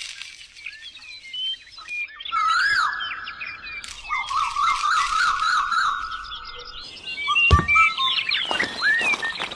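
Birds chirping: many short rising and falling chirps, with warbling whistled calls from about two seconds in to nearly seven seconds in. A single thump comes about seven and a half seconds in.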